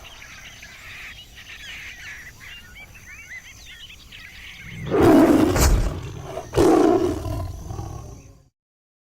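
Birds chirping softly, then two loud big-cat roars about a second and a half apart, after which the sound cuts off.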